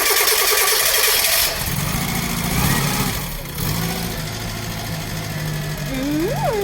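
Vanden Plas Princess 1300's engine being started: the starter cranks with a fast pulsing for about a second and a half, then the engine catches and settles into a steady idle.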